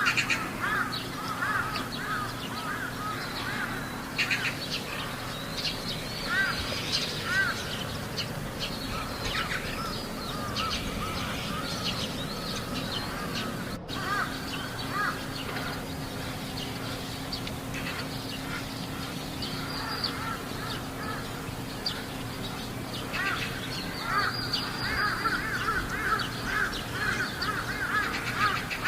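Crows cawing over and over in short calls, densest near the start and again in the last few seconds, with a brief dropout about halfway through.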